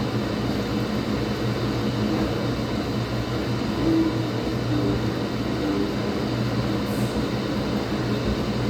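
Laundromat washing machine running with a steady mechanical hum and churning noise.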